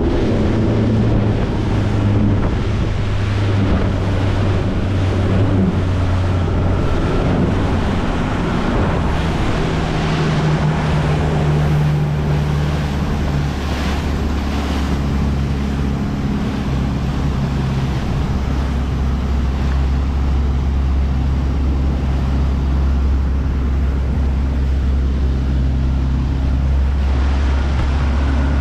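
Yamaha 150 hp four-stroke outboard running steadily at speed, its drone shifting a little in pitch a few times, with wind buffeting the microphone and the wake rushing behind the hull.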